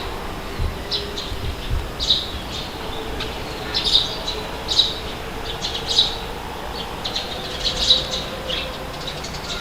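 Birds giving short, sharp calls about once a second over a steady rush of wind, with a few low gusty rumbles in the first couple of seconds.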